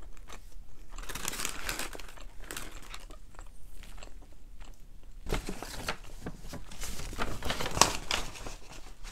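Close-up chewing of a mouthful of empanada's bready crust, heard through a clip-on lapel microphone: an irregular run of soft crunches and wet mouth clicks, busiest about a second in and again over the last few seconds.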